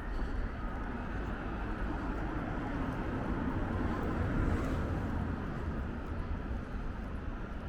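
City street traffic: a motor vehicle passes over a steady low rumble, swelling to its loudest about four seconds in and then easing.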